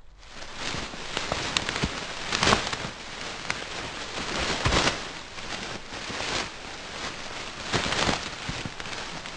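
Cats' paws moving through dry forest undergrowth: a steady crackling rustle of leaves and twigs with scattered sharp snaps and a few louder swells.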